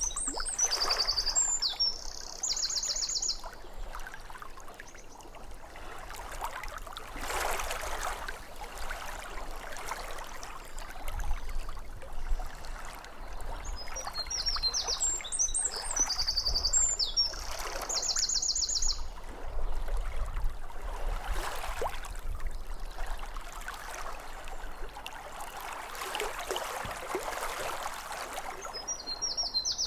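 Lake water lapping at the shore, the wash swelling and easing every few seconds. A songbird sings a short, high trilled phrase near the start and again about halfway through.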